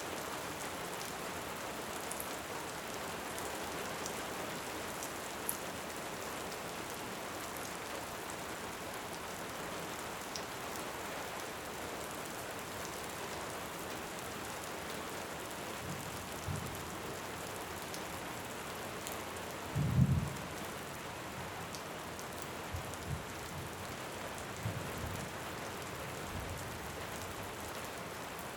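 Steady heavy rain with distant thunder rumbling several times in the second half, the loudest rumble about two-thirds of the way through. A few faint pops from a crackling wood fire.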